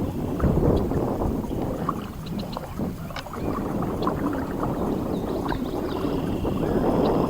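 Shallow floodwater sloshing and swishing around a person's legs as they wade, in slow surges with each stride.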